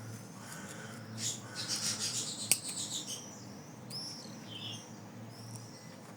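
Scissors cutting through layers of felt: a run of rasping snips with one sharp click of the blades, then a few fainter, squeaky cuts.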